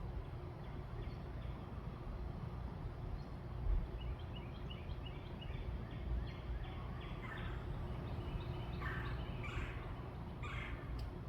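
Backyard birds calling over a steady low background rumble. About four seconds in comes a quick run of short high chirps. From about seven seconds a bird gives a series of louder, harsh calls, one every half second to a second.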